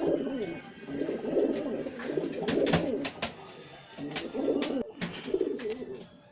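Domestic pigeons cooing in a run of low, warbling coos in four bouts, with a short pause in the middle. A few sharp clicks or taps sound between them.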